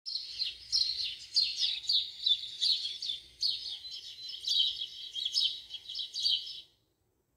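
Bird chirping: bursts of quick, high, falling chirps, about two a second, that stop shortly before the end.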